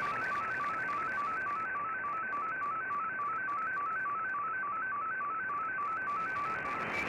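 Shortwave MFSK digital data signal from the receiver's speaker: a rapid series of beeping tones hopping in pitch in repeating upward runs, over steady radio hiss. Near the end there is a brief higher tone and a short break.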